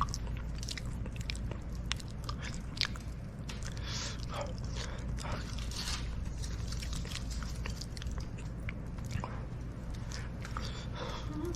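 Close-up eating sounds: a person chewing a fire-roasted sweet potato, with many small irregular clicks and smacks over a steady low hum.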